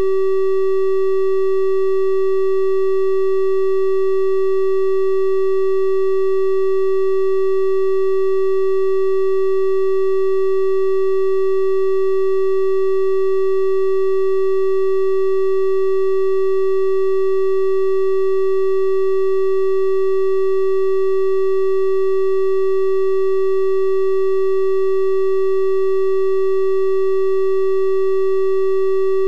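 Steady, unbroken 384 Hz triangle-wave tone, electronically generated, holding one pitch with faint overtones above it.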